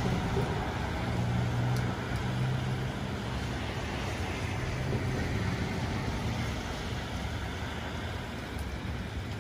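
Steady rain falling on a street, with a car passing on the wet road: its engine hum and tyre noise are strongest in the first few seconds and then fade under the rain.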